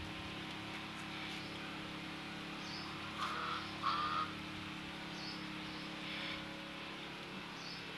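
Birds calling over a steady low hum: a short high call repeats about every two and a half seconds, and two louder calls come about three and four seconds in.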